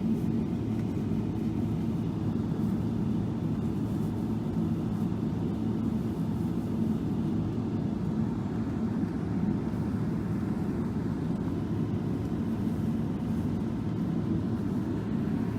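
Steady low rumble of a Boeing 777-300 airliner heard from inside the passenger cabin, engine and airflow noise that holds constant without rising or falling.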